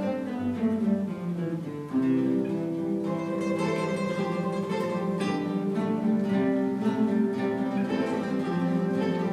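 Guitar ensemble playing: a descending run of notes, then about two seconds in the whole ensemble comes in louder with held chords and plucked notes.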